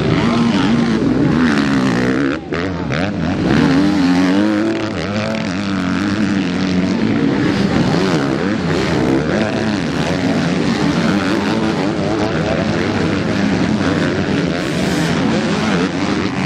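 Several MX2 motocross bikes racing, their engines revving up and down over one another, with a brief drop in level about two and a half seconds in.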